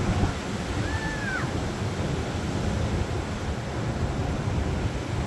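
Ocean surf washing steadily, with wind buffeting the microphone. A brief faint high call sounds about a second in.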